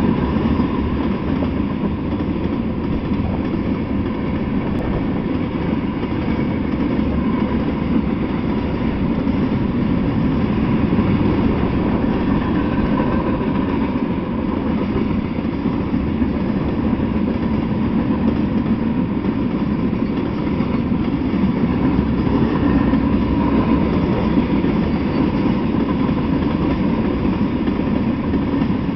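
Mixed freight train of tank cars, boxcars and covered hoppers rolling steadily past: a loud, even noise of steel wheels on the rails.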